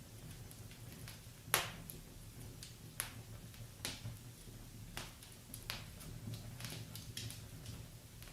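Wood fire burning in a fireplace: irregular sharp pops and snaps of the burning logs, roughly one a second, the loudest about one and a half seconds in, over a low steady rumble.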